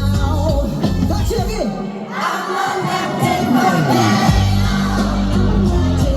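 Loud live rock music with a crowd singing and shouting along. About two seconds in the bass drops out and the crowd's massed voices come to the front. The bass returns a little past the two-thirds mark.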